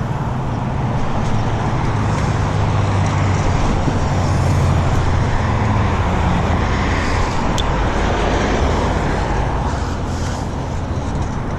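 Steady road traffic noise: motor vehicles running past with a low engine rumble, swelling a little around the middle and easing off toward the end.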